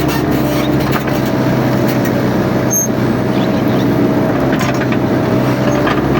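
Mini excavator's engine running steadily, with a steady higher tone over the engine and a few scattered knocks.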